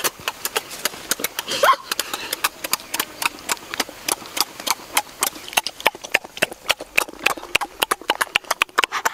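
Close, wet chewing and lip-smacking of people eating boiled eggs and chicken with their hands: a rapid, irregular run of sharp smacks and clicks. A short rising vocal sound comes nearly two seconds in.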